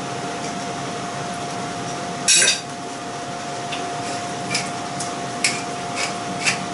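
Metal utensil clinking against a cooking pan: one louder clank a couple of seconds in, then a run of light taps about two a second, over a steady kitchen hum.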